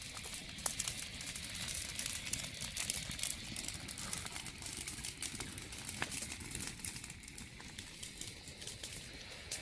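Food sizzling and spitting in a pan over a wood fire: a steady, dense crackle of fine pops.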